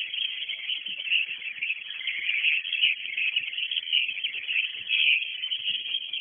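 Dense, continuous twittering of swiftlets, a high chirping chorus of the kind played as a lure or roost call to draw swiftlets into a nesting house.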